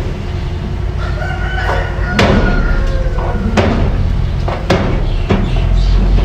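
Mini bulldozer's engine running steadily, with several sharp metal clanks and a thin, drawn-out high tone from about one to three seconds in.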